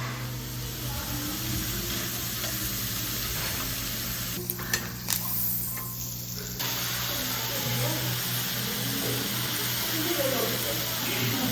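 Food sizzling on a hot pan, an even crackling hiss over a steady low hum, with a few sharp clicks about halfway through.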